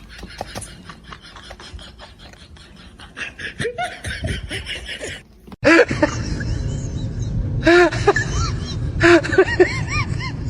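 A person laughing in repeated short bursts, loud through the second half after an abrupt cut about five and a half seconds in; before the cut, quieter scattered clicks and knocks.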